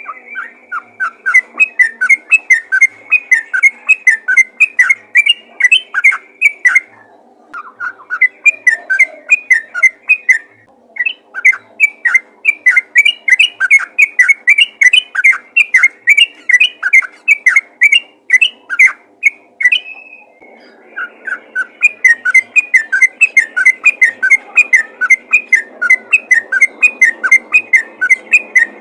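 Yellow-vented bulbul (trucukan) singing fast runs of short chirpy notes, about four or five a second, breaking off briefly three times.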